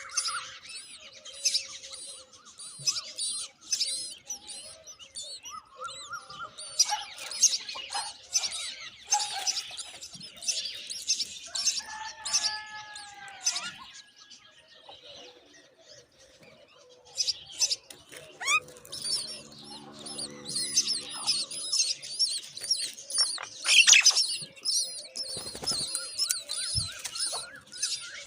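Myna chicks chirping, many high, rapid chirps overlapping at once, with a quieter lull about halfway through before the chirping picks up again.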